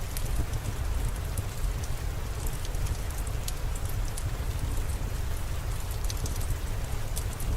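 Steady rain falling, with scattered sharp drop ticks over a deep low rumble.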